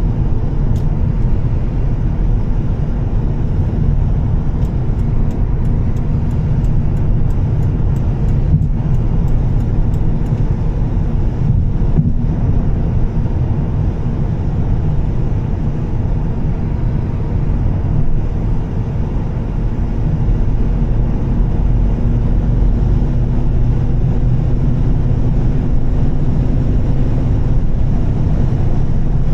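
Volvo S60 T6's turbocharged straight-six with a Heico exhaust, cruising with a steady low drone that rises slightly in pitch near the end. Tyre and road noise on a wet road runs underneath.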